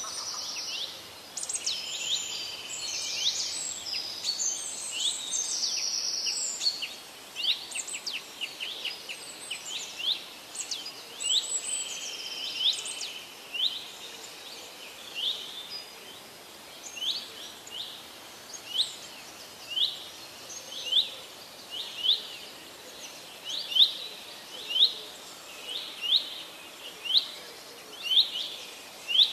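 Birds calling: a busy mix of chirps and whistles for the first several seconds, then one bird repeating a single short, sharp note about once a second.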